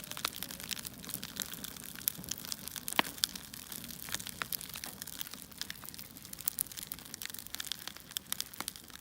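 Crackling of a wood fire: irregular small pops and snaps over a faint hiss, with a couple of sharper snaps about two and three seconds in.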